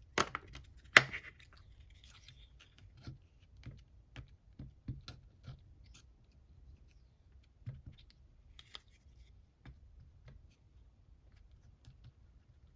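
Light taps, clicks and rustles of a rubber stamp and masking material being handled on a desk, with two sharper knocks in the first second.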